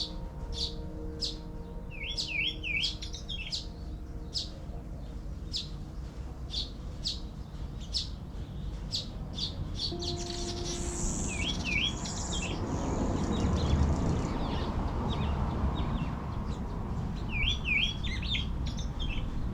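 Songbirds chirping, a short chirp repeated about twice a second, broken by a few quick warbled phrases. A steady low rumbling noise runs underneath and grows louder in the middle.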